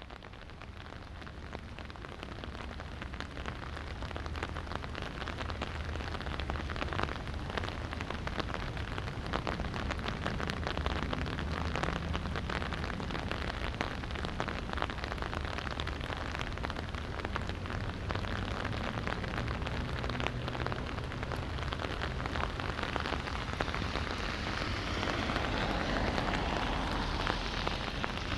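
Light rain falling, with many separate drops ticking on nearby surfaces, fading in over the first few seconds. A steady low rumble runs underneath, and a broader hiss swells up near the end.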